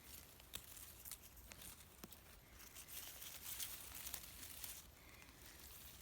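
Faint footsteps through forest undergrowth, with dry leaves and twigs rustling and crackling underfoot and a scattering of small snaps.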